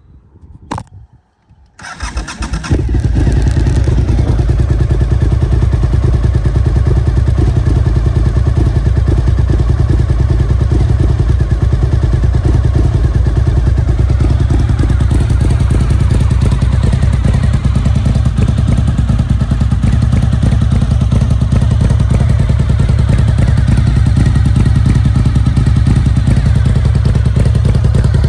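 Cagiva Raptor 1000's V-twin engine, breathing through an aftermarket Roadsitalia exhaust, started from cold: a short crank about two seconds in, then it catches and idles steadily and loudly.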